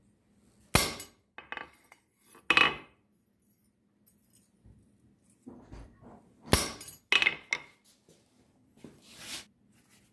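Steel clinking and knocking on steel: a handful of sharp, briefly ringing metal strikes at irregular intervals, the loudest about a second in, at about two and a half seconds and at about six and a half seconds, followed near the end by a short scraping rustle.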